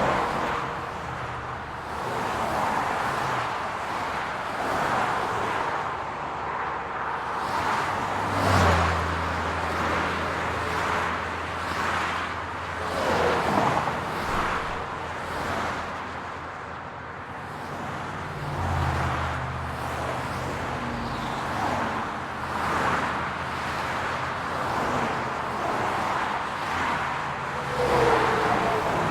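City road traffic: cars passing one after another, their tyre and engine noise swelling and fading every few seconds. A lower engine hum comes in about a third of the way through and again past halfway.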